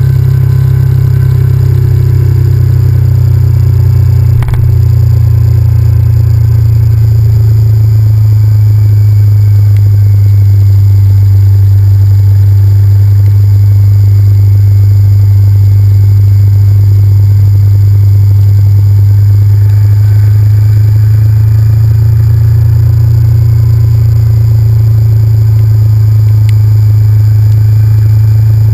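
Honda VTR1000F's V-twin engine running at a steady, unchanging speed, loud through a GoPro mounted on the bike. A single short knock about four and a half seconds in.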